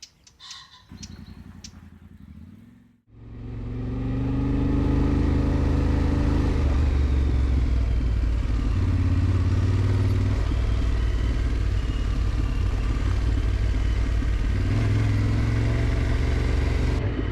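Yamaha Ténéré 700 parallel-twin motorcycle engine running while riding, a steady drone whose pitch shifts now and then with the throttle. It comes in abruptly about three seconds in, after a short quieter stretch with a few clicks.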